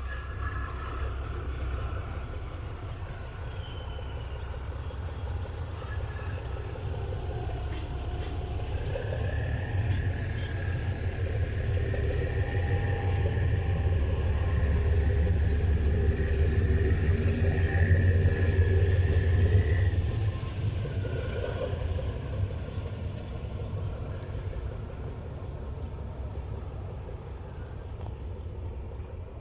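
Diesel train engine running with a deep, steady drone and a faint whine above it. It grows louder to a peak about 18 seconds in, then eases off.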